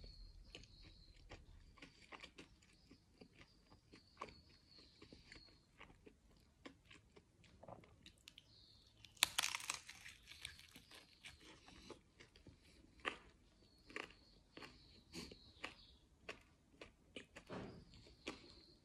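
A person chewing and biting into a crusty folded flatbread with melted cheese, with many small mouth clicks and one louder crunching bite about nine seconds in.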